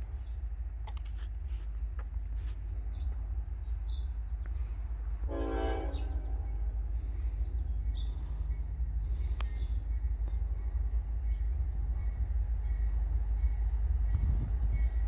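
Approaching Norfolk Southern freight train, its diesel locomotives a low rumble that grows steadily louder, with one short locomotive horn blast about five seconds in.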